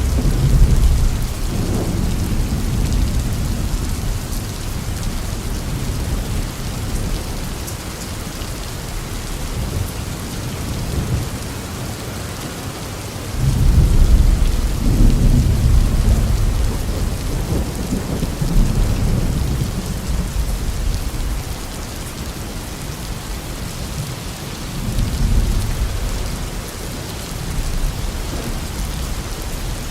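Steady heavy rain with rolling thunder: a low rumble near the start, a louder one starting about 13 s in that rolls on for several seconds, and weaker rumbles later.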